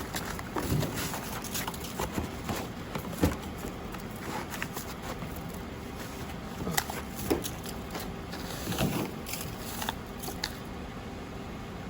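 Irregular crunching and scraping in snow, a scattering of short crunches over a steady rustling hiss.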